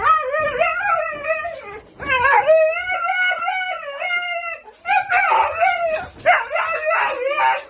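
A dog howling in long, wavering, high calls: two drawn-out howls, then a rougher, broken run of howling and whining in the last few seconds.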